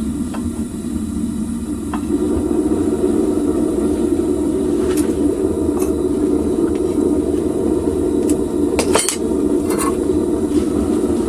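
Homemade propane furnace's burner running with a steady roar, louder from about two seconds in. A few sharp metallic clinks and taps sound over it, in a quick cluster near the end.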